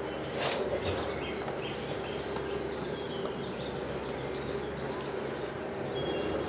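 Outdoor woodland ambience: several birds chirping and calling in the surrounding trees, short calls scattered throughout, over a steady low hum. A brief rustle about half a second in.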